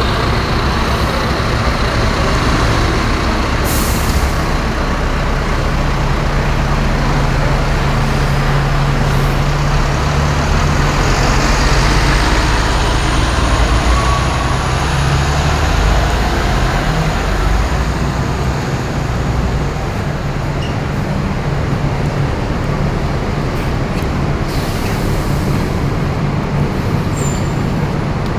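Scania K230UB city bus with a five-cylinder diesel, running steadily. The engine note builds and then eases off around the middle, with a faint whine that rises and falls. Short air hisses come about four seconds in and again near the end.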